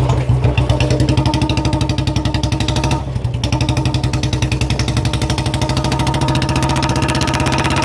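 Royal Enfield BS6 Standard's single-cylinder engine revving through a free-flow bend-pipe silencer, a fast pulsing exhaust beat, with a short drop in revs about three seconds in before it picks up again.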